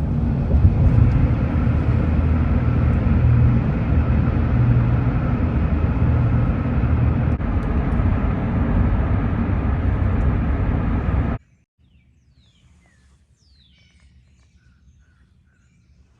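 Steady driving noise of a vehicle on the road, heavy in the low end, cutting off abruptly about eleven seconds in. Faint bird chirps follow.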